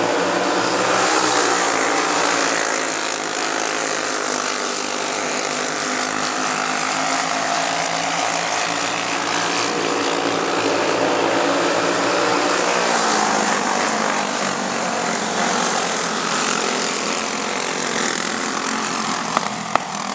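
Several go-kart engines, Briggs & Stratton Animal single-cylinder four-strokes, running together at racing speed, their pitches rising and falling as the pack laps the track. A few sharp clicks come near the end.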